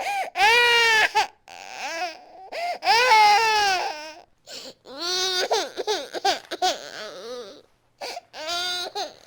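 Infant crying hard in repeated loud, high-pitched wails, each lasting about a second, with short breaths between them.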